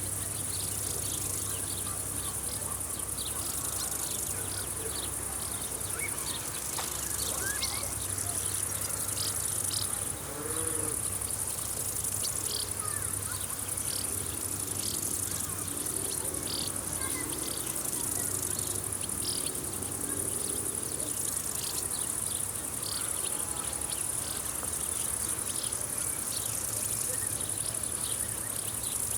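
A summer field chorus of insects such as crickets, with a steady high-pitched chirring and many short chirps repeating throughout.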